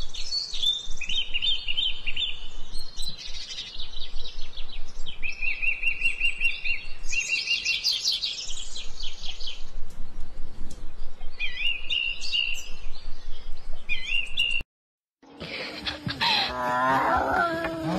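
Small birds chirping, with rapid high trills coming in runs for about fifteen seconds. After a short break, near the end, comes a drawn-out cat yowl that wavers and slides down in pitch.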